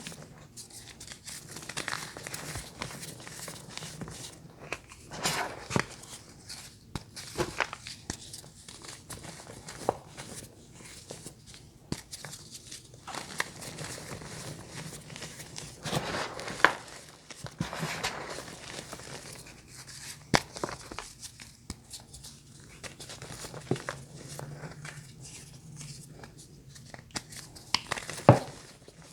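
Close-miked crunching of crunchy bars being bitten and chewed, mixed with crinkling, in irregular sharp cracks and crackles, the loudest crack near the end.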